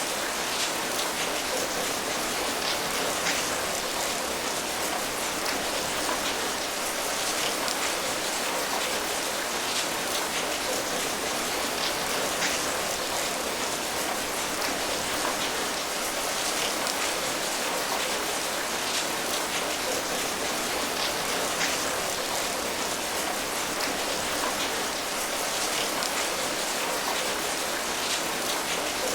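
Steady rain falling, a dense even hiss of raindrops with many small drop ticks and no change in strength.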